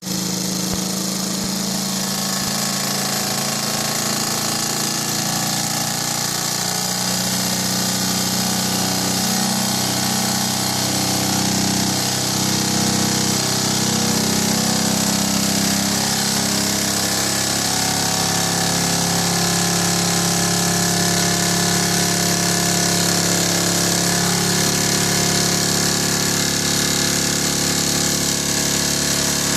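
Alpha Stirling engine running steadily: a fast, even mechanical rattle with a hum and a high hiss.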